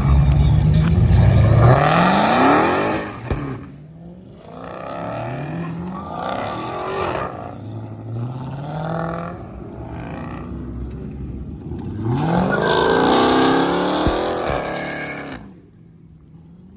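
Car engine being revved hard several times, its pitch climbing with each rev. The loudest rev comes about three quarters of the way through, and the sound drops away shortly before the end.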